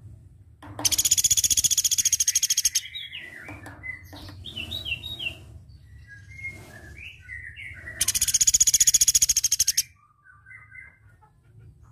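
Platuk beras (velvet-fronted nuthatch) calling: two long, fast, high rattling trills of about two seconds each, with short varied chirps between them. A low steady hum runs underneath.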